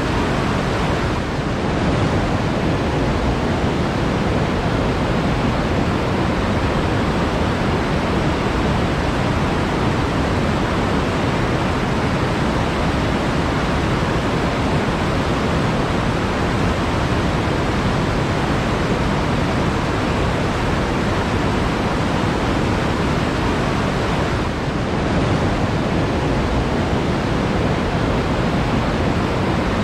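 Flowing water rushing steadily, an even full sound without distinct splashes, briefly dipping about a second in and again near the end.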